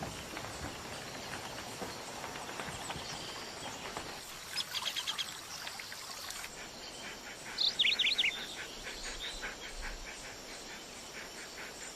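Natural ambience of steadily droning insects with birds chirping: a quick run of chirps about four and a half seconds in, another near eight seconds, and then a run of rapid, evenly spaced ticks.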